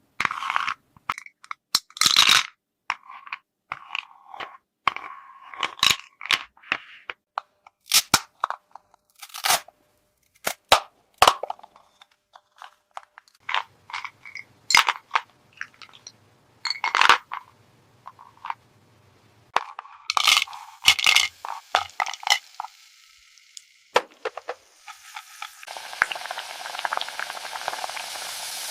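Small plastic toy kitchen pieces being handled: a string of separate clicks, taps and clinks. About three-quarters of the way through a steady hiss starts and grows louder.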